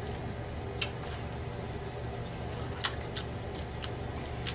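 Close-miked chewing of pork chop, with a handful of short wet mouth clicks and smacks scattered through, over a steady low hum.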